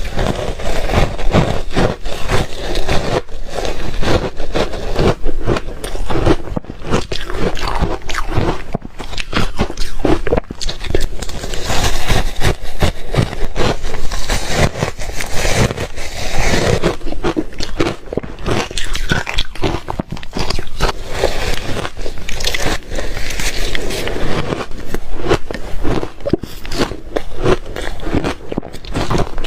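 Reshaved refrigerator ice being bitten and chewed: a dense, unbroken run of crisp crunches and scraping bites.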